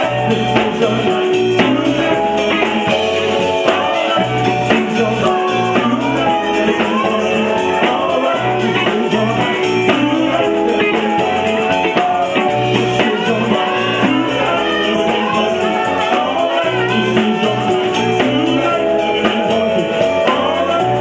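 A live soul band playing a loud, steady, upbeat groove, with a repeating bass line under a regular beat.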